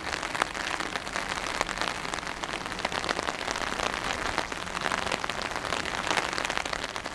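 Steady rain falling, with many sharp hits of individual drops close by.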